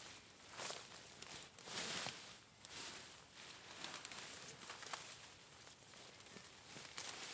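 Faint rustling of vine foliage and crackling stems, with a few sharp clicks, as vines are cut back.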